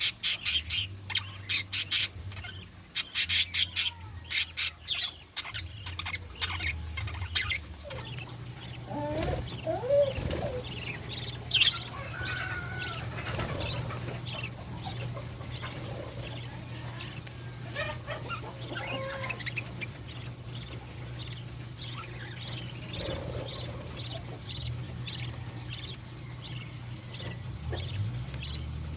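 Budgerigars chirping and chattering, with a quick run of sharp chirps in the first few seconds, then scattered calls. A steady low hum starts about eight seconds in.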